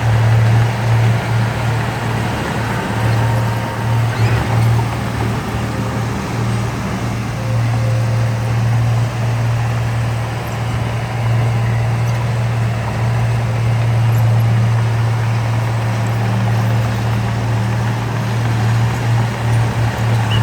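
Heavy construction machine's diesel engine running steadily with a deep, constant drone.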